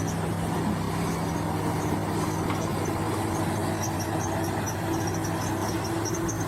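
Bulldozer engine running steadily with a low hum, joined about a second in by a higher steady tone, with faint high-pitched chirps scattered over it.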